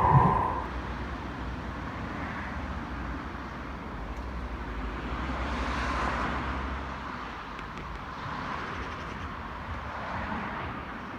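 Steady urban vehicle noise, a low rumble with a hum, swelling as something passes about six seconds in. It follows a loud steady high tone that cuts off half a second in.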